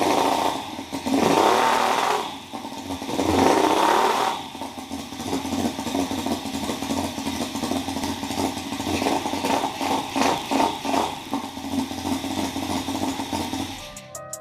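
Small engine running, revved up twice in the first few seconds, then running steadily.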